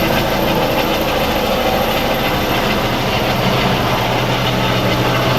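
Helicopter's turbine engine and rotor running steadily and loudly at close range, a constant low hum under a broad rushing noise.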